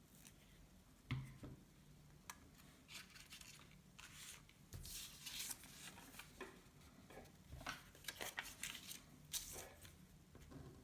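Paper scissors cutting note paper, a run of short snips and paper rustles, with a single knock about a second in.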